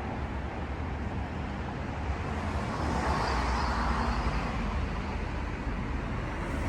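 Road traffic noise: a steady rumble of vehicles that swells as one passes by about three to four seconds in, then eases.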